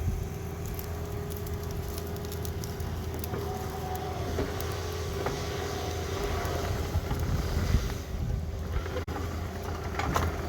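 Heavy equipment's diesel engine running steadily, with scattered knocks and clanks.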